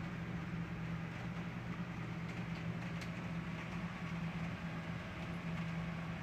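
Steady rushing noise with a low, even hum underneath, unchanging throughout.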